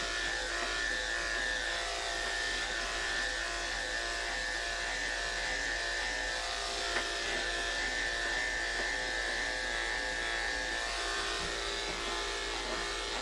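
Electric pet grooming clippers running with a steady buzz as they shave a cat's matted coat, with one brief click about seven seconds in.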